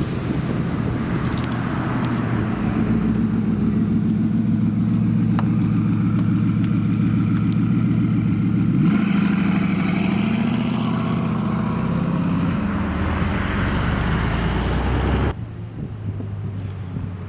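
A supercar engine running at a steady low pitch, then revving up about halfway through and running higher and unevenly. The sound cuts off abruptly near the end, leaving a quieter, lower engine hum.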